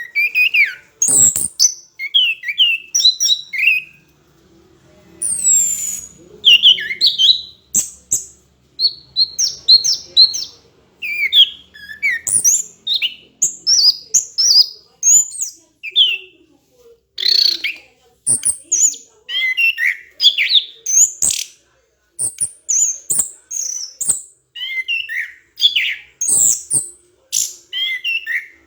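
Orange-headed thrush singing a loud, fast, varied song of short high whistled and chattering phrases, strung together in runs with brief pauses.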